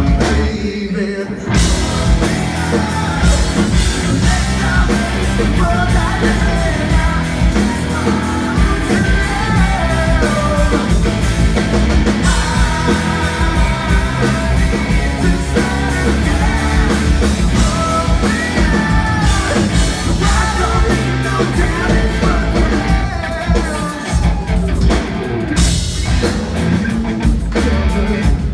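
Live rock band playing: a singer over drums, electric guitar and bass, loud and driving, with a short break about a second in before the band comes back in.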